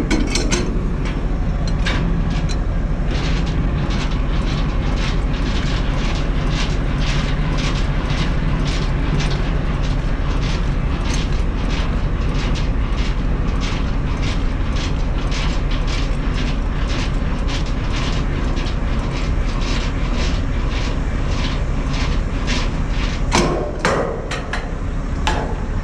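Semi truck's diesel engine idling steadily, with sharp ticks repeating about two to three times a second over it.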